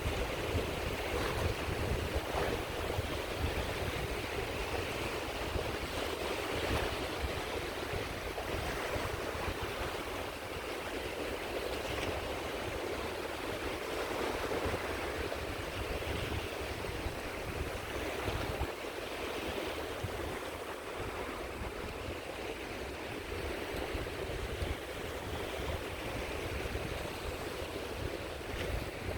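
Small sea waves washing steadily onto a beach, with a low rumble underneath.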